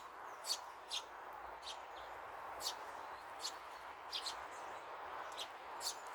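Small birds chirping: short, high chirps repeated irregularly, about one or two a second, over a steady background hiss.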